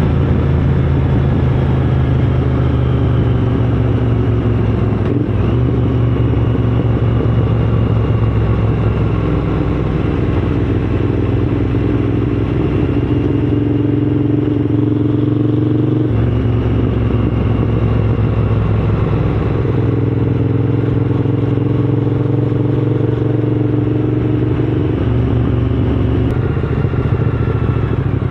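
Triumph Scrambler 900's parallel-twin engine running under way, its note changing abruptly a few times as the engine speed shifts.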